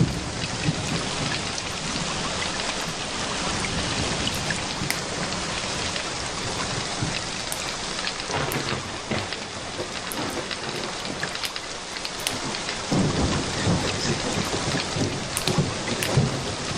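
Steady rain falling, dotted with scattered sharp crackles and ticks. A low thunder rumble swells about thirteen seconds in and fades a few seconds later.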